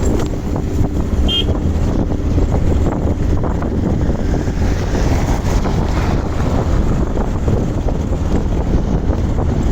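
Heavy wind buffeting the microphone on a moving motorcycle, with engine and road noise underneath, steady throughout.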